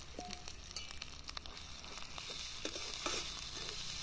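Sliced onions and spices sizzling in oil in an aluminium kadhai, with a spatula clicking and scraping against the pan as they are stirred.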